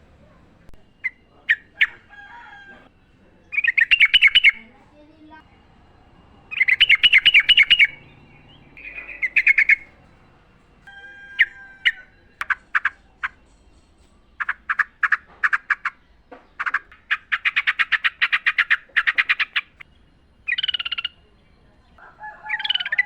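Yellow-vented bulbul singing: bubbly, chattering phrases of rapid notes, repeated every second or two with short pauses between. This is wild song of the kind used as a trigger recording to set caged bulbuls singing.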